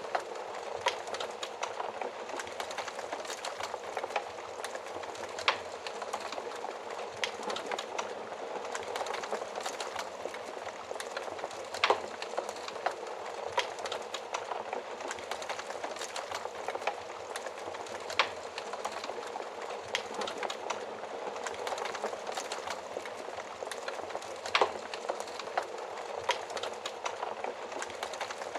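Fire crackling steadily, with a dense run of small crackles and a sharper, louder pop every few seconds.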